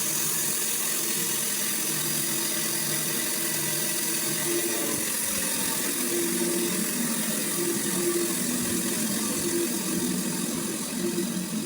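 Sawmill machinery running steadily, a continuous mechanical whir with a hissing, high-pitched edge.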